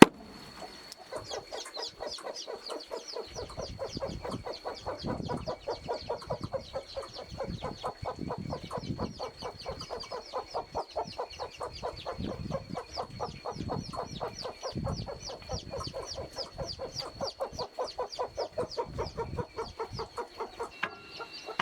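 Chickens clucking in a fast, steady run of short calls, about four or five a second, with a faint steady high whine underneath.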